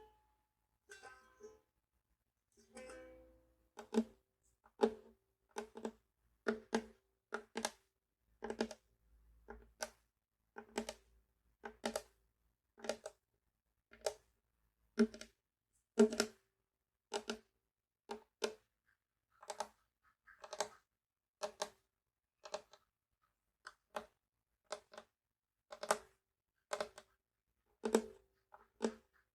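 Ukulele struck in short, quickly damped strokes, the same chord about once a second, with a few softer notes in the first three seconds.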